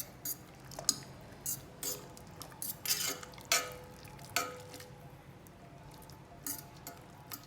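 A utensil stirring macaroni in a cooking pot, knocking and scraping against the pot in irregular clinks, some with a short metallic ring. The clinks come often through the first four and a half seconds, then only a few near the end.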